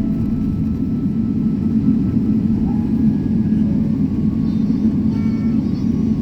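Steady low rumble inside an airliner cabin as it taxis after landing: the jet engines and the airframe running evenly, with no change in pitch or level.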